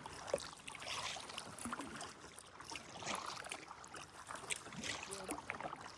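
Kayak paddle strokes in calm water: soft splashes and drips from the blades, with small ticks and gentle swells in level about once a second.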